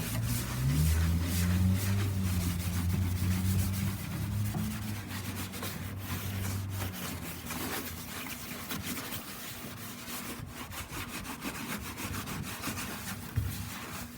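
Scouring pad scrubbing the sanded surface of a bathtub by hand in a steady, rough rubbing, the last smoothing pass before an epoxy coating. A low hum runs under it for the first half and stops about halfway through.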